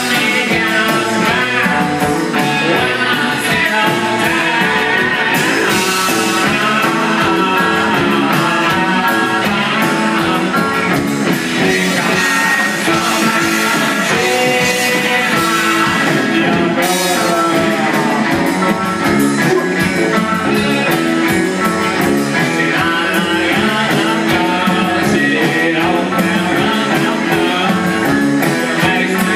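Rock band playing: guitar-driven rock and roll with singing, steady and loud throughout.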